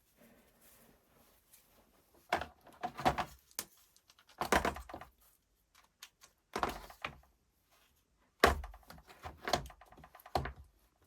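Clacks and knocks of hard drill parts being handled and set down on a bench, in five short clusters a second or two apart.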